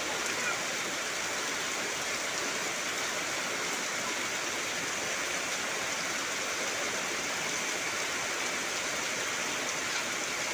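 Heavy rain falling steadily on trees, a dense unbroken hiss.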